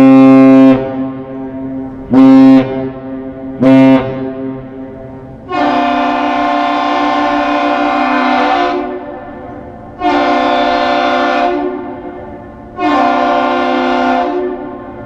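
The American Century's ship horn finishes a long blast and sounds two short ones. The Aerial Lift Bridge's horn, with a different tone, answers with one long and two short blasts: the one-long-two-short captain's salute exchanged as a ship departs.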